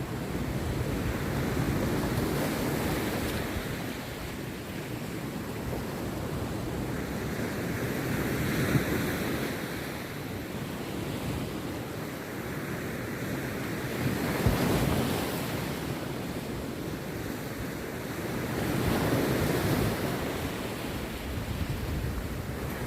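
Rough sea surf breaking on the beach, one crashing wave swelling up and falling away about every five or six seconds. Wind buffets the microphone, with a low thump about two-thirds of the way in.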